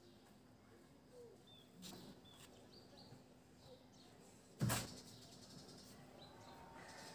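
Faint, scattered bird chirps in the background over quiet room tone, with a single sharp click a little past halfway through.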